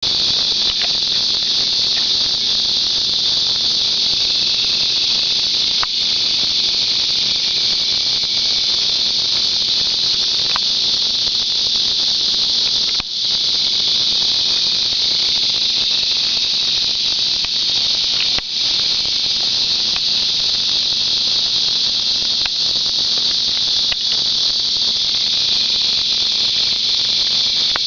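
Loud, steady high-pitched insect chorus buzzing without a break, with a few faint clicks.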